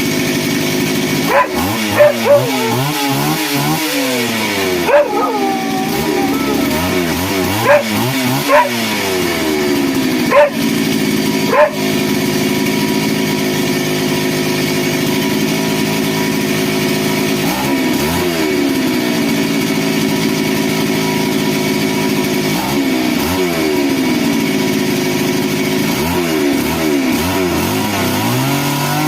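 A dog barking in sharp single barks, about eight times in the first twelve seconds, over an engine that runs throughout. The engine's pitch sweeps up and down several times as it is revved.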